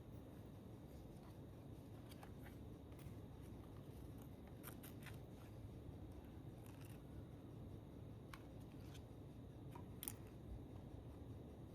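Faint scattered light clicks and ticks, about a dozen spread irregularly, over low room tone.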